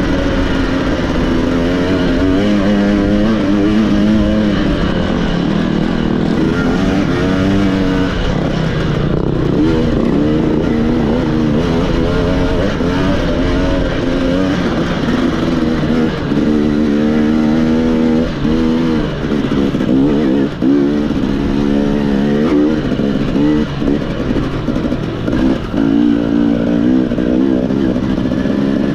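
Off-road racing motorcycle engine under hard riding, its pitch constantly climbing and dropping as the throttle is worked on and off and the gears change.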